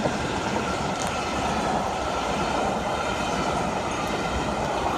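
A passenger train running past with a steady rumble of wheels on rail.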